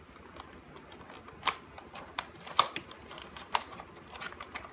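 Sharp plastic clicks and scrapes as a flathead screwdriver pries at the clips holding the back half of a BMW Z4 (E85) instrument cluster housing. About five clicks, the loudest roughly two and a half seconds in.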